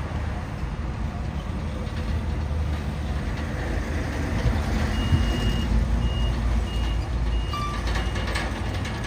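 Diesel engine of heavy earthmoving machinery rumbling steadily. About five seconds in, a reversing alarm starts beeping roughly twice a second.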